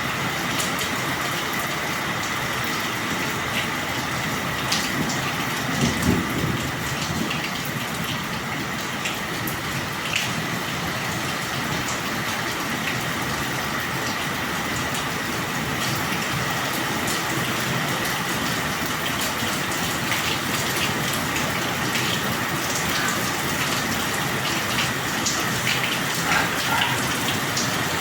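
Steady rain falling, with scattered drops ticking close by. A faint steady high tone runs underneath, and a brief low rumble swells about six seconds in.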